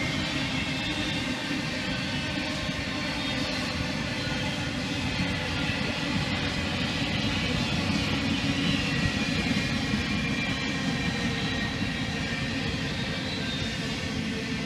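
Freight train of empty intermodal well cars rolling past on the rails: a steady rumble of wheels and cars, with a faint high ringing from the wheels over it.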